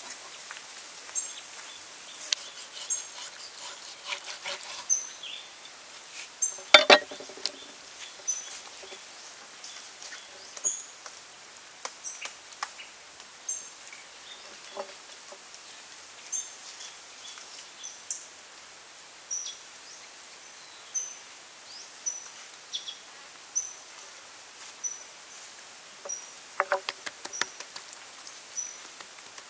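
A bird chirping over and over in short high calls, with scattered taps and one loud thump about seven seconds in as raw beef is handled on a wooden board. Near the end come quick, close-spaced pats as hands press and rub salt and pepper into the steak.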